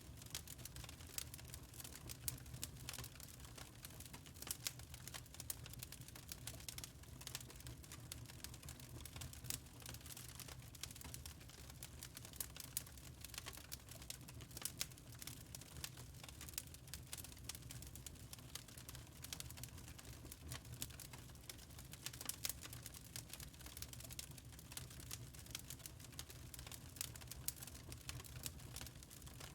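Wood fire burning in a fireplace, crackling with many small irregular pops over a faint low rumble.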